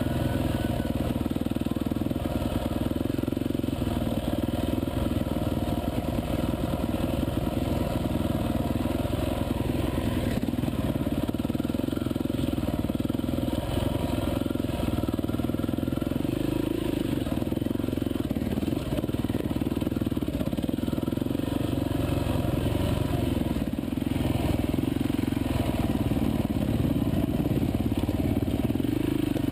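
Off-road dirt bike engine running steadily while riding a rough trail, with no large rises or drops in revs.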